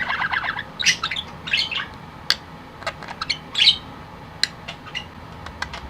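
Pet budgerigar chirping and warbling: a string of short high chirps, squawks and sharp clicks between bouts of its mimicked talk.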